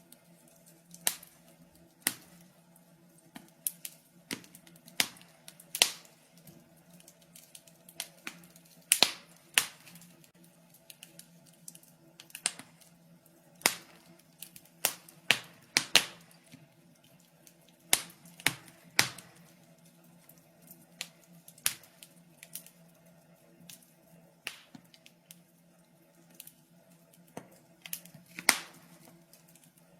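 Wood fire crackling in a fireplace: irregular sharp pops and snaps, sometimes in quick pairs or clusters, over a faint steady low hum.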